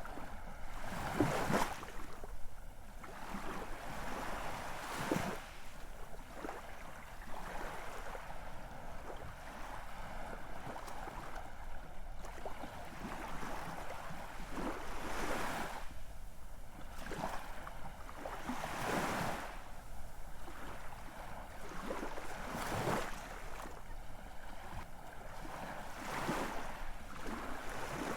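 Ocean surf: waves washing in and breaking, a steady hiss of water that swells with each wave every few seconds.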